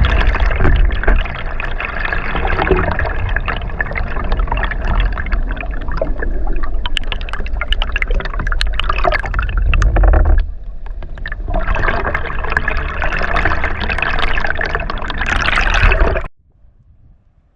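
Rushing, gurgling water picked up by a GoPro's own microphone, with many scattered clicks. The sound thins out for about a second midway, returns, and cuts off abruptly near the end.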